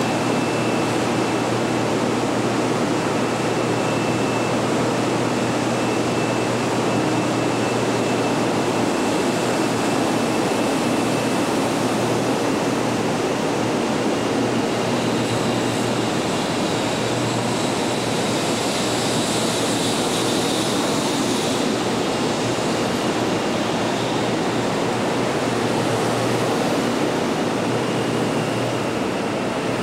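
100 series Shinkansen train pulling out of a covered station platform, its cars passing close by with a steady rumble of wheels and running gear. A faint high whine rises over it about halfway through as the train gathers speed.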